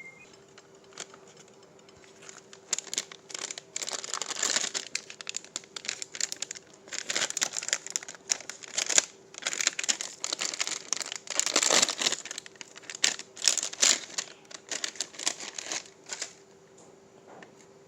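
Packaging crinkling and rustling in irregular bursts as it is handled, for about fourteen seconds, with a faint steady hum underneath.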